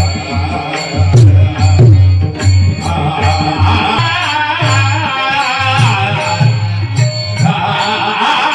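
Marathi Varkari bhajan music: tabla playing with deep bass strokes, a steady beat of high metallic ticks, and a wavering melody line over them.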